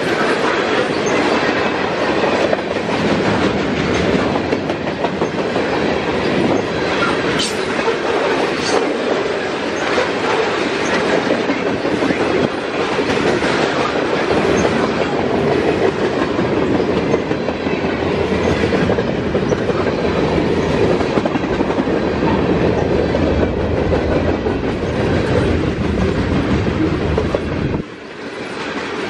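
Freight train cars rolling past close by: a steady rumble and rattle of steel wheels on the rails with repeated clacks, briefly quieter near the end.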